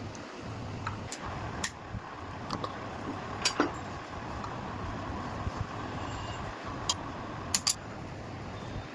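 Scattered sharp metallic clinks, about six of them, over a steady low background noise, typical of tools and metal parts being handled during a car repair.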